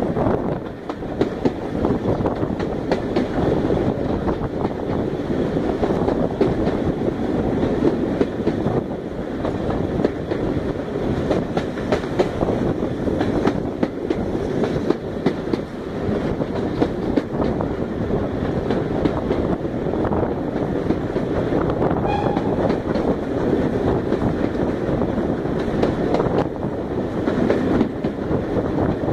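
Steam-hauled passenger train running, heard from a carriage window: a steady rumble of the wheels on the rails with a continual clickety-clack.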